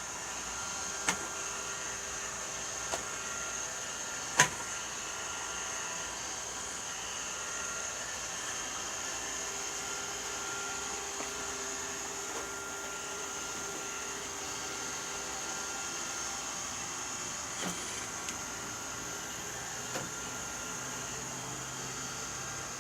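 Robot vacuum cleaner running steadily with a high whine, broken by a few sharp knocks, the loudest about four seconds in.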